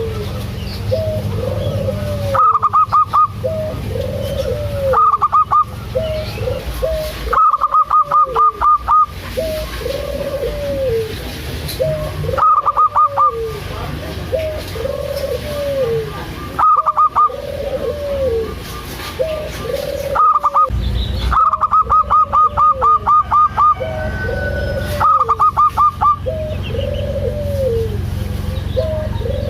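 Zebra dove (perkutut) cooing over and over, low arched coos about once a second. Every few seconds a louder run of rapid, higher-pitched notes cuts in.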